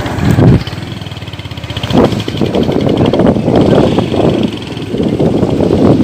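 Motor vehicle engine running, with two loud bumps within the first two seconds.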